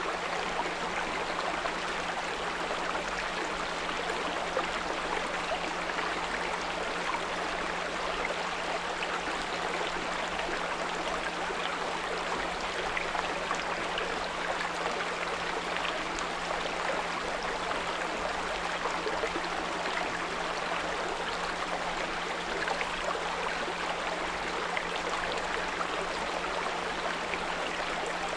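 Small brook running steadily, with a steady low 174 Hz pure tone mixed in beneath the water.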